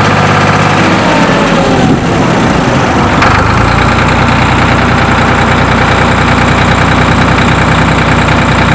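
Ford tractor engine running with the sod harvester, loud and steady. A whine falls in pitch over the first two seconds, then the run turns heavier and more even from about three seconds in.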